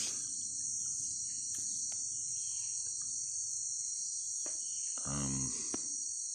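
Steady, high-pitched chorus of insects, unbroken throughout. A brief low sound cuts in about five seconds in.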